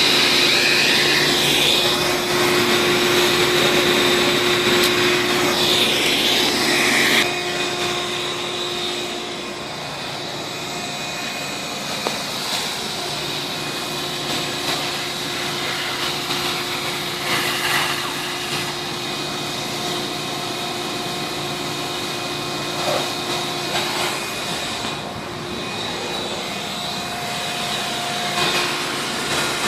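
A small motor running steadily with a steady whining hum; it drops in level about seven seconds in and carries on.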